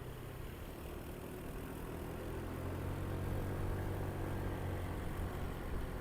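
Motorcycle engine running on the road, growing louder about two seconds in and then holding steady.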